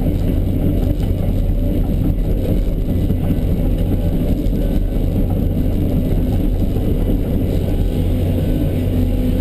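The diesel engine of a John Deere 650D LC running steadily.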